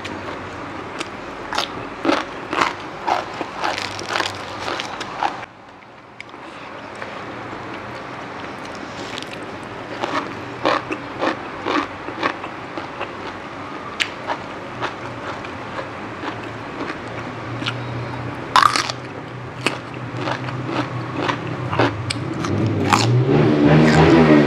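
Close-miked chewing and crunching of crisp raw vegetables and salad, with many sharp bites. Near the end a passing motor vehicle's engine grows louder.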